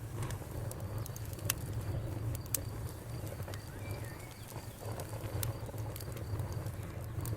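Campfire crackling: sharp pops at irregular intervals over a low, steady rumble of the burning fire. A brief faint bird note about halfway through.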